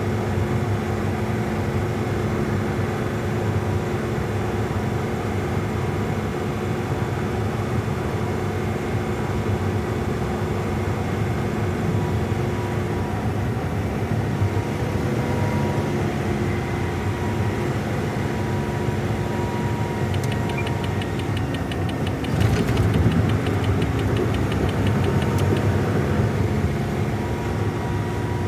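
Semi-truck engine running steadily, heard from inside the cab, with a louder stretch and a fine rattle about two-thirds of the way through.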